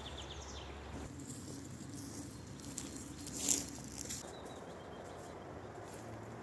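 Faint outdoor rustling and crackling of dry leaves and debris, with one louder rustle about three and a half seconds in. A bird chirps faintly in the background.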